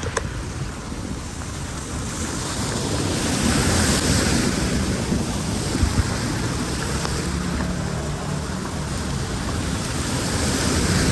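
Water rushing steadily into a storm drain, a loud, even wash that swells about a couple of seconds in, with a couple of short knocks near the middle.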